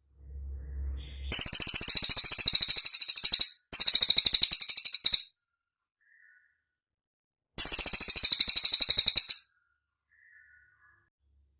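Cililin song: three long, very high, rapidly pulsed trills of about two seconds each, with a faint short note between them. A low rumble comes in the first second, before the first trill.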